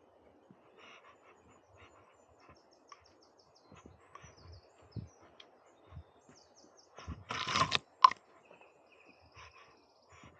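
Faint forest birdsong of short high chirps over scattered soft crunches of footsteps on a trail. About seven seconds in comes a louder rustling crunch lasting about half a second, ending in a sharp click.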